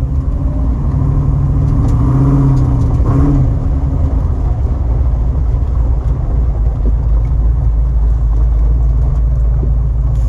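6.2-litre LS V8 crate engine with a stage 3 cam running at idle, blipped once about two seconds in and settling back. The engine still needs tuning to smooth out its running.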